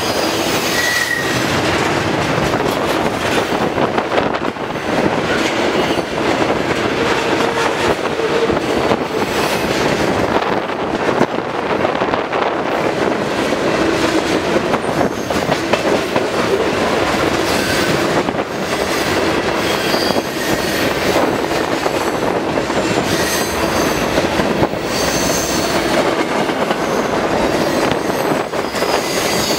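Mixed freight cars of a manifest train rolling past close by: a steady rumble and rattle of steel wheels over the rails with clickety-clack. A few brief, thin wheel squeals cut through, one about a second in and others later on.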